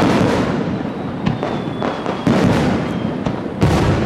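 Aerial fireworks shells bursting: three loud booms, one at the start, one a little past two seconds and one near the end, each trailing off in a rumbling echo, with smaller crackles between.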